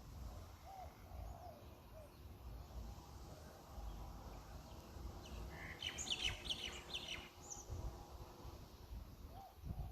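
A bird chirping: a quick run of high chirps about six seconds in, over a low rumble.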